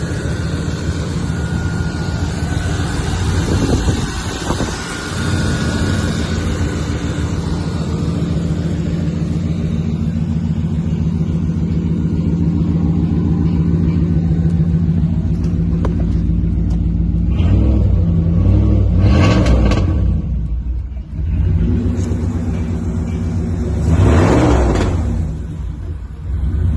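Straight-piped exhaust of a 1997 Jeep Grand Cherokee ZJ, the engine idling loudly with a deep, steady note and revved up and back down three times, about four seconds in, around eighteen seconds and again near the end.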